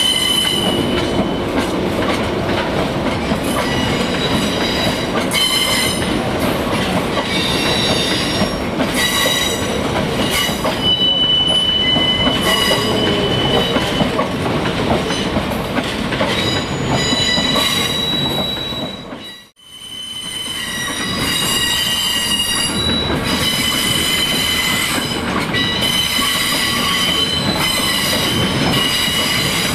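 A train running past at close range, a steady rumble of wheels on rail with high-pitched wheel squeal coming and going. The sound cuts out sharply for a moment about two-thirds of the way through, then resumes.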